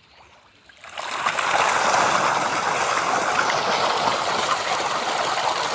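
Pond fish thrashing and splashing at the water's surface in a feeding frenzy, starting suddenly about a second in and then keeping up a dense, steady churning.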